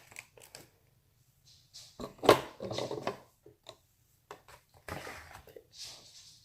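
Handling noises of slime containers and a measuring spoon on a tabletop: scattered taps and clicks, with one louder knock about two seconds in, and some rustling near the end.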